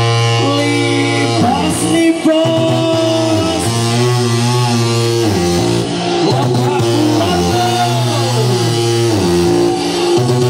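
Loud music from a large parade sound system, a melody of held notes that bend and slide in pitch over a heavy bass.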